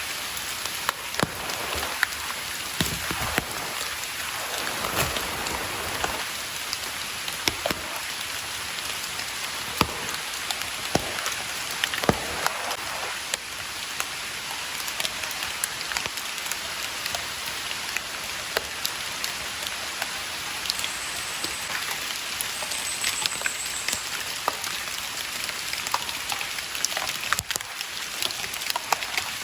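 Rain falling steadily, with many individual drops striking close by as sharp ticks over the even hiss.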